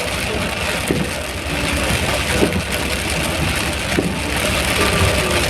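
Rain falling steadily, as an even hiss with a continuous low rumble underneath.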